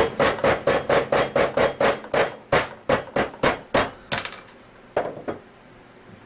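Mallet striking a flathead screwdriver in quick blows, about five a second, driving out a G seal from a scroll pump, with a faint metallic ring. After about four seconds the blows thin out to a few spaced taps.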